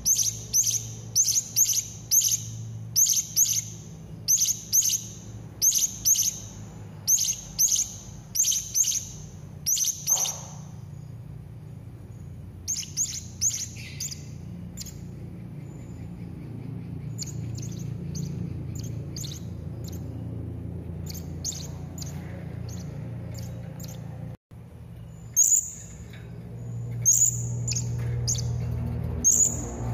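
Serindit (hanging parrot) calling: short, sharp, high-pitched chirps, about two a second for the first ten seconds, then in sparser clusters, over a steady low hum.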